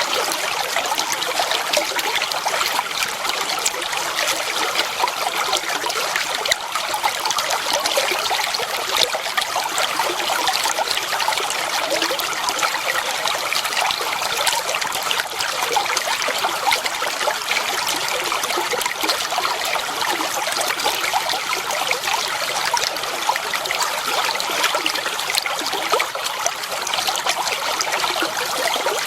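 Clear water flowing and trickling steadily over stones, a dense babble of small splashes and gurgles.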